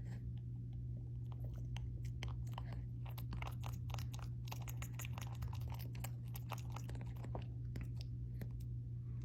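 A pet biting and nibbling at nails, a quick run of small crunchy clicks that is densest in the middle, over a steady low hum.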